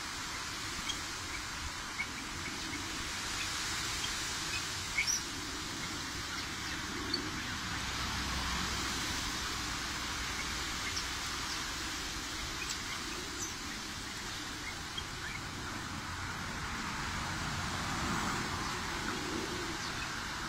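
Outdoor ambience: a steady background hiss, with short, faint bird chirps scattered throughout.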